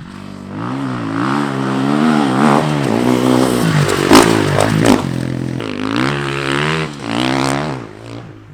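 Dirt bike engine revving up and down as it is ridden, its pitch rising and falling several times, with a couple of sharp cracks about four to five seconds in.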